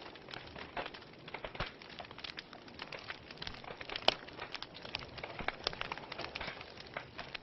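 Fire in a fireplace crackling, with dense, irregular snaps and pops over a soft hiss; the sharpest pop comes about four seconds in.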